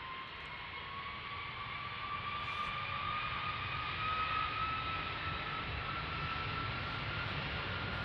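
Airbus A330-200 jet engines spooling up for takeoff: a whine that rises slowly in pitch over a rushing rumble, growing louder.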